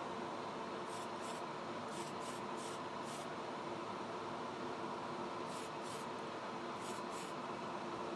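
Short hisses of paint spraying, about ten brief bursts, several in quick pairs, over the steady hum of a spray booth fan.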